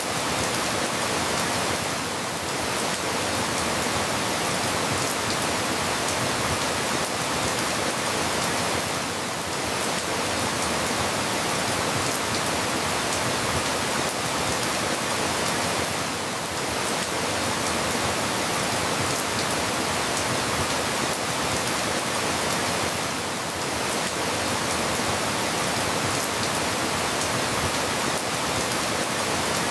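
Steady rain falling, an even hiss with no separate drops standing out, easing slightly about every seven seconds.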